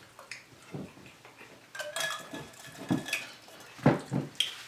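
Tableware clinking and knocking on a table, with scattered light clicks. One clink, about two seconds in, rings on for about a second.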